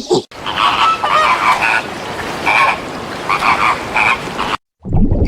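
Animal calls repeated in short clusters over a steady background, starting and stopping abruptly with the clip.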